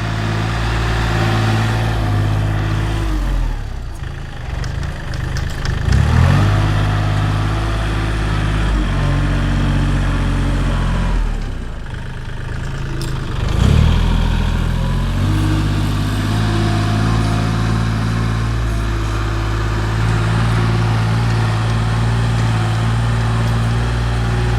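Heavy vehicle engine running steadily. Its pitch sags twice, about 3 and 12 seconds in, then climbs back, as when the engine takes on load.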